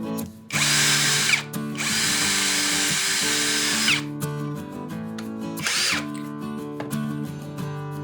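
Electric drill running in bursts: a short run, then a longer one of about two seconds, then a brief one, over background music.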